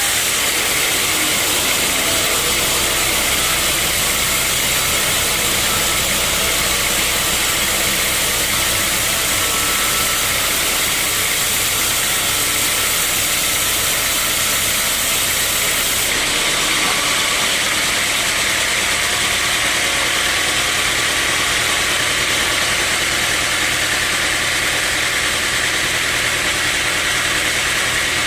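Sawmill machinery running steadily: a constant dense hiss over a hum. The high part of the hiss changes about sixteen seconds in.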